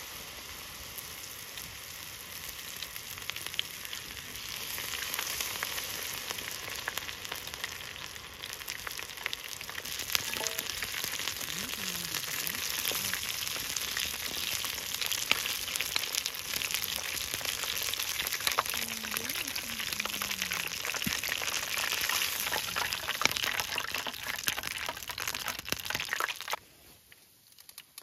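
Food sizzling in a hot pan, with many small pops and spits, rising a little in level over the first few seconds and cutting off abruptly near the end.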